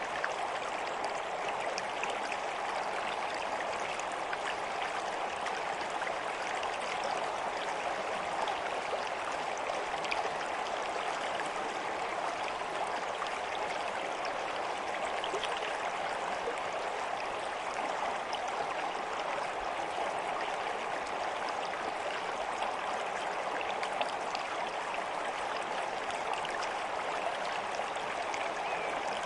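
Steady babbling of a flowing stream, with many small splashes and trickles over an even rush of water.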